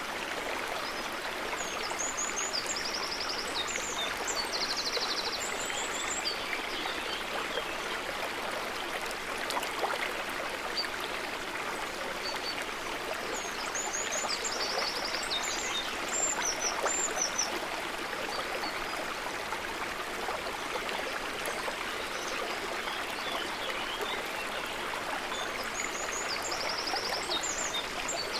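A river or stream of running water, a steady even rush. Over it, groups of short high chirps and trills come three times, a few seconds each, roughly every eleven seconds.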